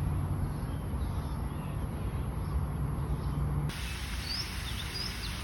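Outdoor ambience with a steady low rumble, with faint high chirps early on. About two-thirds of the way in the background changes abruptly, and several short, high, rising bird chirps follow.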